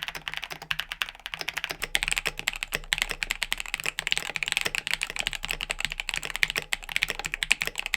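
Continuous typing on a mechanical keyboard fitted with factory-lubed NK Silk Olivia linear switches: a dense, fast run of keystrokes, somewhat louder from about two seconds in.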